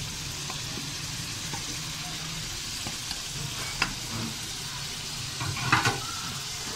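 Chicken pieces, tomatoes and spices frying in ghee in a metal pot, sizzling steadily. A spoon clicks once against the pot about midway, and knocks a few times near the end as stirring begins.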